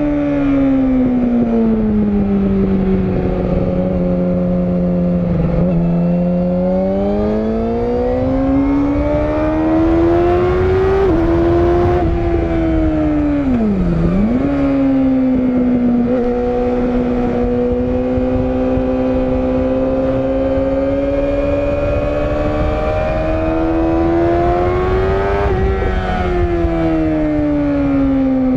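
Yamaha YZF-R6 (RJ27) inline-four sportbike engine under way, its note rising and falling with the throttle, with a sharp drop and quick recovery in pitch about halfway through. A steady rush of wind and road noise lies under it.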